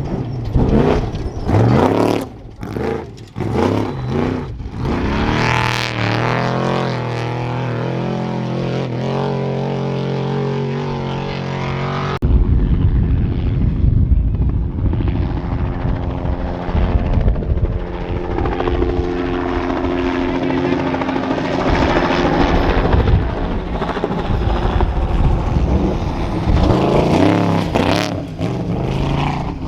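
Off-road trophy truck race engines revving hard and passing by, with engine pitch rising and falling as they accelerate and back off. The sound changes abruptly about twelve seconds in to another truck's engine, which builds and then passes near the end.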